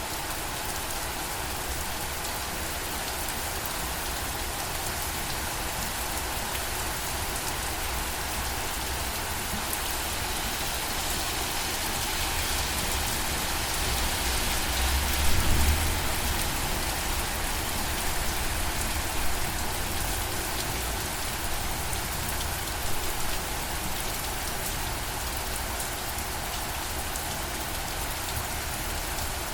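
Steady rain falling on a surface, an even hiss with scattered drop ticks. About halfway through there is a brief low rumble, the loudest moment.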